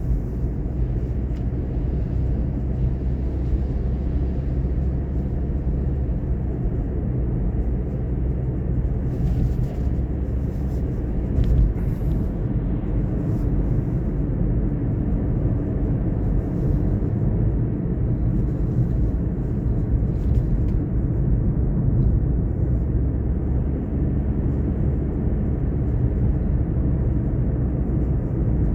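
Car driving along: a steady low rumble of engine and tyre noise, with faint light ticks now and then.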